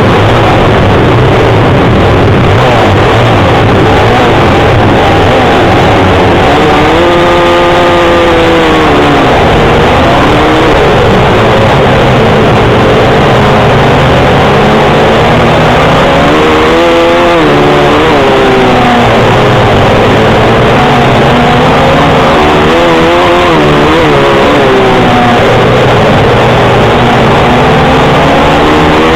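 Several pit bike engines racing round a speedway track, loud and continuous. The engine note rises and falls about four times as bikes rev through the bends and pass close by.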